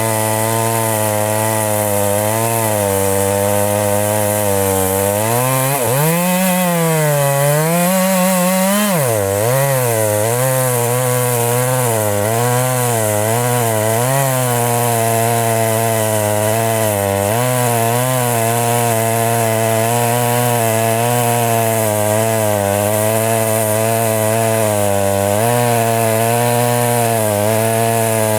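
Two-stroke chainsaw cutting into a very thick tree trunk, held under heavy load, with its engine pitch wavering as the chain bites. About six seconds in it revs higher for a few seconds, then drops back down under load. The saw is labouring against a trunk this size.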